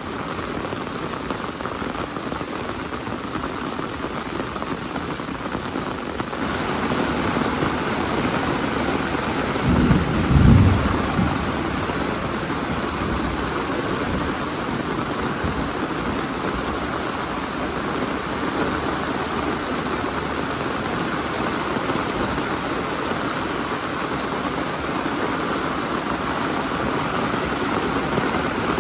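Heavy rain falling steadily, growing louder about six seconds in, with a brief low rumble about ten seconds in.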